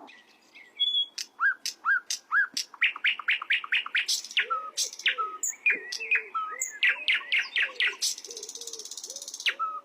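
Sikatan londo flycatcher singing a fast, varied song of sharp rising chirps, slurred whistles and clicking notes. A lower, repeated warbling note runs under it from about halfway, and a brief hiss comes near the end.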